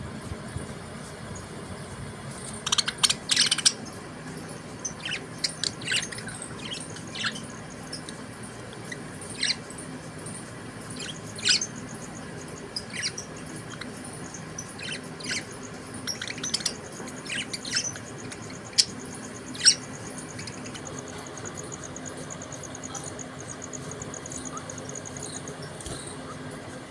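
Budgerigars chirping in short, sharp calls, loudest in a cluster about three seconds in and growing sparse after about twenty seconds, when a faint, fast trill takes over. A steady low hum runs underneath.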